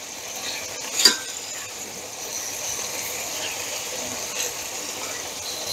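Chicken breast pieces sizzling in hot oil in a frying pan, a steady hiss that swells at the start, with one sharp click about a second in as the pieces are turned.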